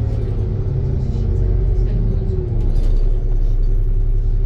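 ADL Trident II Enviro 400 double-decker bus running on the road, a steady deep engine rumble and drone heard from on board, its hum dipping slightly in pitch about two seconds in.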